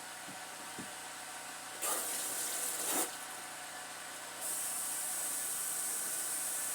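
A steady high hiss comes in about two seconds in, swells and stops a second later, then starts again suddenly about four and a half seconds in and holds; two light clicks in the first second.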